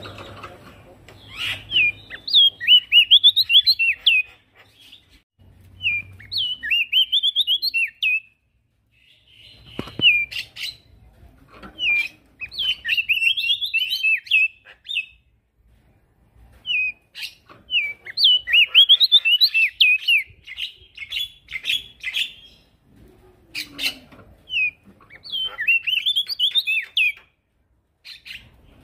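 Male prenjak daun singing: about seven phrases of quick, jumping, chattering notes, each one to four seconds long, with short pauses between them.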